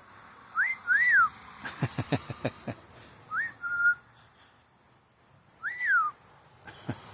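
Amazon parrot whistling: four short whistles, each rising then falling in pitch, spaced a second or two apart. A quick run of clicks comes about two seconds in, with crickets trilling steadily behind.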